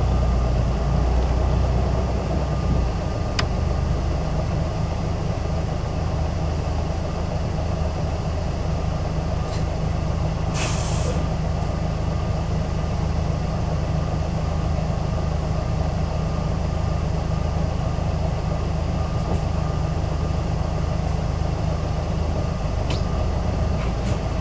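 Isuzu Erga city bus heard from inside the cabin, its diesel engine and running gear giving a steady low drone. About ten seconds in comes one short hiss of compressed air from the air brake system, and there are a couple of faint clicks.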